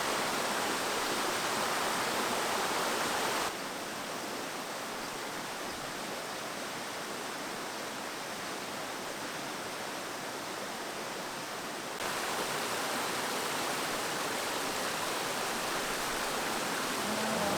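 Valley stream with water rushing in a steady, even wash. It drops a little in level about three and a half seconds in and comes back up about twelve seconds in.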